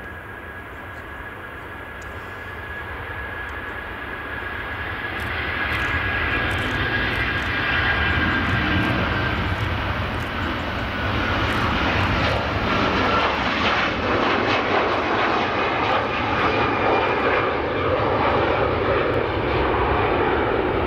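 Jet engines of an Airbus A330 airliner running, with a high whine over a wide rushing noise, growing louder over the first eight seconds or so and then holding steady.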